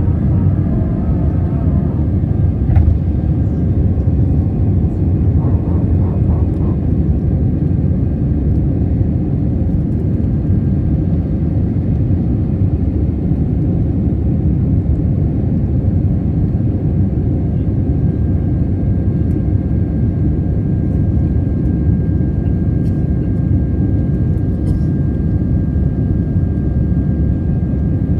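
PIA airliner's engines running steadily, a constant low rumble of aircraft noise, with a faint steady whine joining about two-thirds of the way in.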